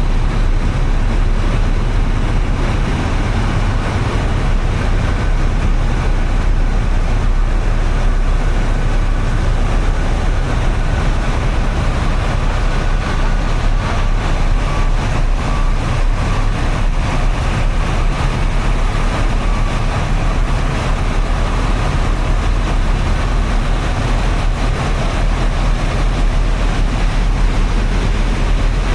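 Steady street noise in the rain: traffic on wet roads and falling rain, with a constant low rumble.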